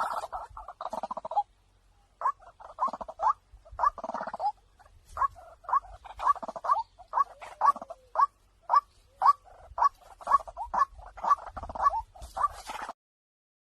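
White-breasted waterhen calling: a long series of short, repeated notes, about two a second, breaking off shortly before the end.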